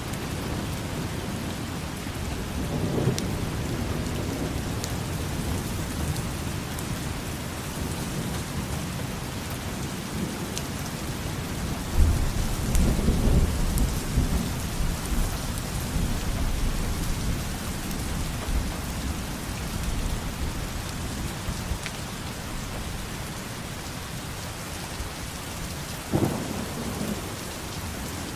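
Steady heavy rain with rolls of thunder: a short rumble a few seconds in, a longer, louder roll about halfway through, and another brief rumble near the end.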